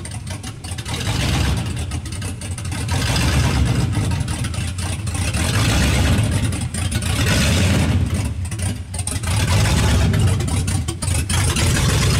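Straight-piped, muffler-less exhaust of a 1999 Ford SVT Lightning's supercharged 5.4-litre V8 with aftermarket cams, idling loud and deep. The level swells and dips every couple of seconds.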